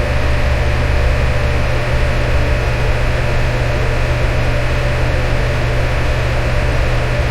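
Electric fan running at a constant speed: a steady rush of moving air over a low motor hum, with a faint steady tone in the midrange.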